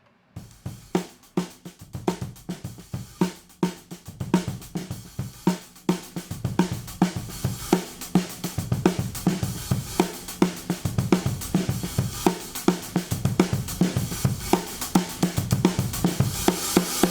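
Recorded drum kit (kick, snare, hi-hat and cymbals) playing a steady beat, processed through a modded DBX 119 compressor/expander. The drums come in about half a second in, and the overall level builds gradually.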